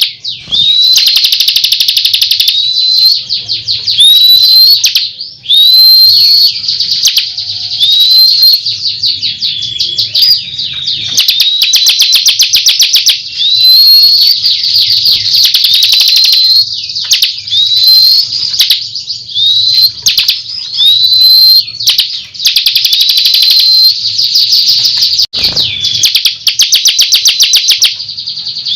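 Bar-winged prinia (ciblek) singing continuously and loudly. Fast, dry rattling trills alternate every second or so with short, high, upward-curving whistled notes.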